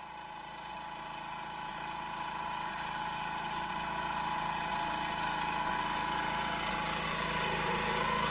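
A farm machine's engine running steadily, gradually getting louder.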